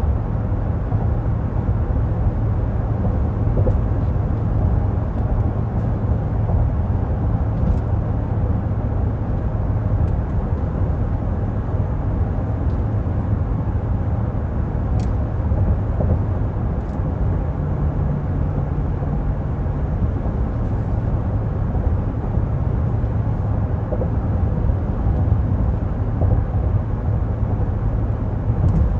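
2024 Cadillac Escalade Sport Platinum on the move: a steady, low engine and road rumble, holding an even level throughout.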